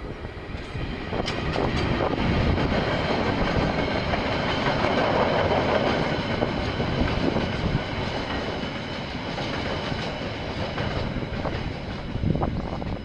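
KiwiRail train running past on the line, a steady rumble of wheels on rails with ringing tones and a few sharp clicks in the first couple of seconds. It swells about two seconds in and eases a little over the second half.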